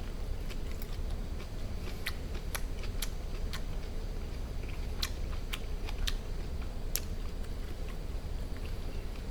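A person chewing close to the microphone, eating wood-fire-roasted duck with aged kimchi: scattered wet smacks and crunches, roughly one every half second to a second, over a low steady hum.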